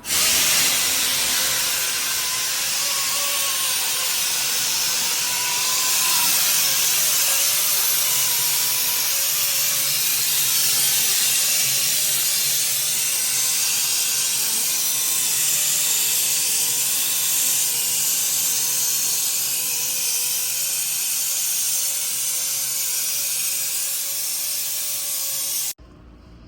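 A loud, steady hiss that starts suddenly and cuts off abruptly near the end, like a jet of pressurised air or spray.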